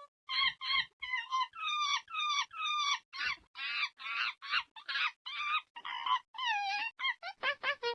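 Monkey calls: a long run of high, chattering calls that bend up and down in pitch, about two or three a second.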